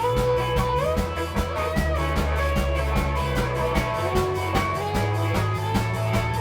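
Blues-rock band playing an instrumental passage: sustained lead guitar notes that bend upward over bass and a steady drum kit beat.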